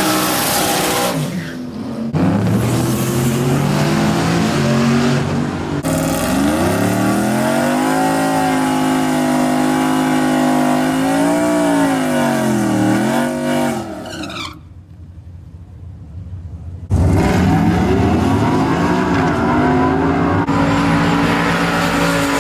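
Truck engines revving and running hard, their pitch climbing and dropping, in short clips joined by abrupt cuts. The sound drops to a quieter stretch about fifteen seconds in, then comes back loud.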